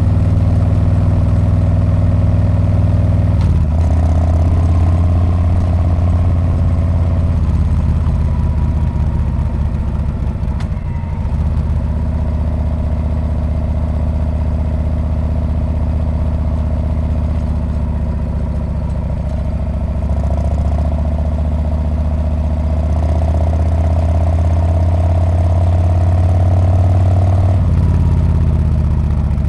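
Harley-Davidson Street Bob's V-twin exhaust running under way at a steady pace. The engine note shifts a few times, drops briefly about eleven seconds in, then picks up again, and changes once more near the end.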